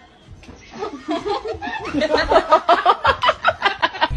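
A person laughing: a run of quick ha-ha pulses that starts about half a second in and grows louder.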